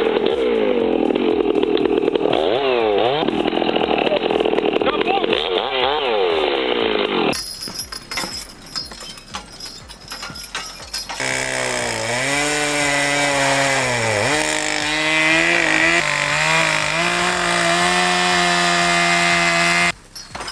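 Chainsaw cutting through a tree, its engine pitch swooping down and up repeatedly, cutting off suddenly about seven seconds in. After a few quieter seconds, a steady engine drone starts about eleven seconds in, dips in pitch once and then holds until it cuts off just before the end.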